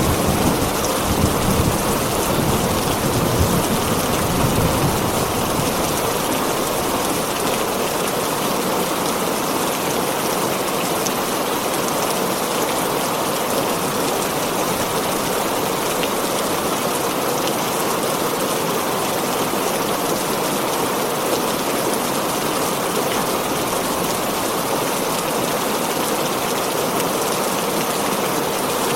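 Heavy rain drumming on a tin roof, a steady dense hiss. A low thunder rumble fades away over the first few seconds.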